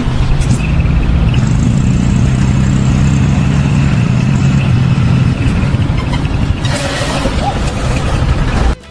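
A heavy engine running steadily and loudly, with a rushing hiss rising over it about seven seconds in; it cuts off abruptly near the end.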